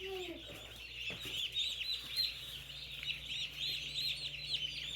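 A box of day-old broiler chicks peeping all together, a dense, continuous chorus of rapid, overlapping high chirps.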